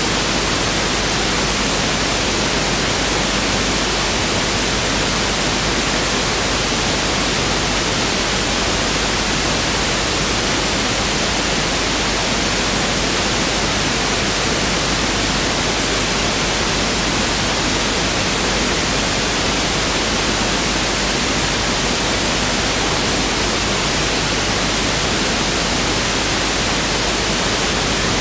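Pink noise test signal (1/f noise): a steady, even hiss spread across the whole range of pitch, unchanging throughout.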